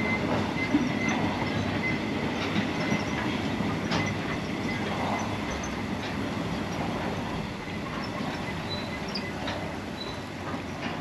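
Narrow-gauge cattle wagons rolling past: a steady rumble of wheels on rail with irregular clacks over the rail joints and a faint, steady high wheel squeal. It slowly grows quieter.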